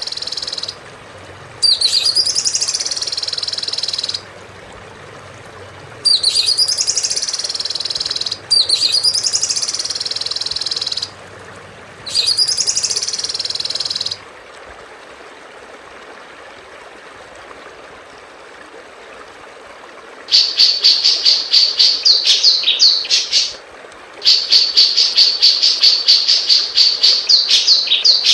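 Songbird singing high, buzzy phrases of about two to three seconds each, every one opening with a quick upward swoop and settling into a steady trill, repeated several times. After a pause of several seconds comes a fast run of sharp repeated notes, about five a second.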